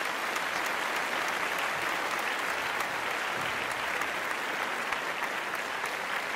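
Steady, dense applause: a continuous patter of many hands clapping.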